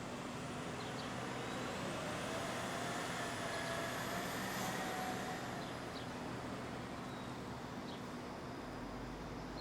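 City street traffic, with a heavy vehicle passing that swells to its loudest about four to five seconds in and then fades, a faint whine rising and falling in pitch as it goes by.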